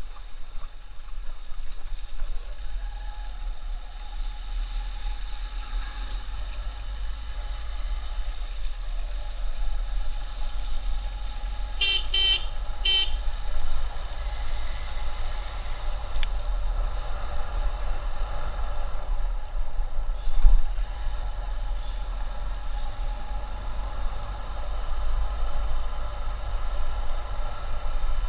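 Steady low rumble of wind and traffic noise from a moving motorcycle on a highway, with a vehicle horn giving a few short toots about halfway through.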